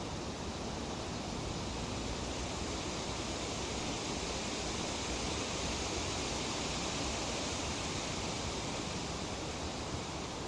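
Breeze rustling through tree leaves: a steady hiss that swells slightly in the middle.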